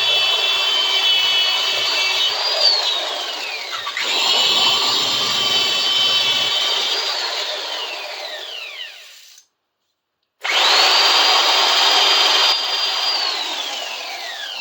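Small high-speed electric power tool working on the clamp's metal, run three times: each time a steady high whine over a rough grinding noise, then a falling whine as it is switched off and spins down. It is being used to strip dirt, rust and flaking chrome from the steel bar clamp.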